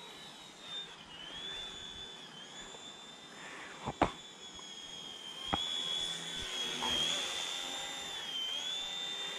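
Small electric RC helicopter's motor and rotor whining steadily in flight, the high-pitched whine dipping and rising a few times as the throttle changes. Two short sharp clicks about four and five and a half seconds in.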